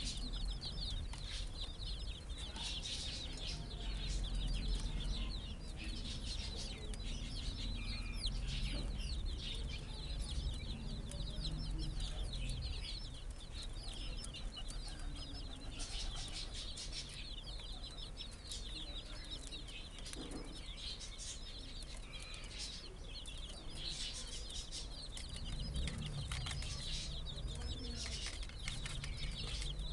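A flock of young chicks cheeping, many short high peeps overlapping without a break, over a low rumble.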